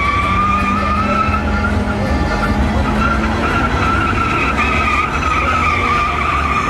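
Vehicle burnout: tyres squealing in a sustained, slightly wavering high screech over heavy engine rumble.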